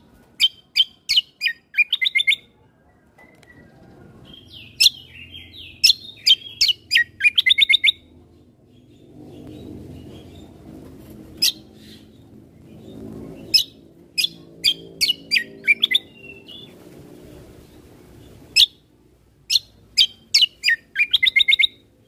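Kecial kombo (cucak kombo) singing in lively phrases of quick, sharp chirps and trills. The phrases come in groups with short pauses between them, over a faint low background rumble.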